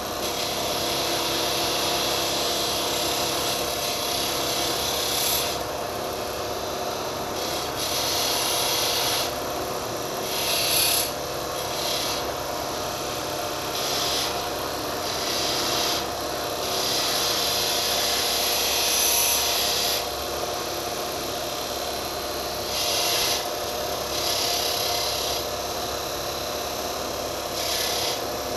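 Steel scissor blade being ground against an abrasive in repeated passes of one to three seconds each, a rasping scrape over a steady hum, taking the pits off the back of the blade.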